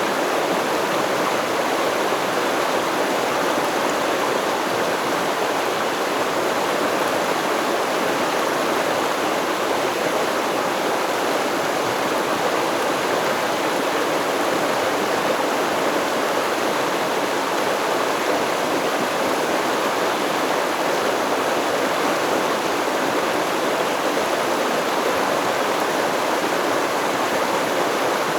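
Stream water flowing, a steady, unchanging rush of moving water.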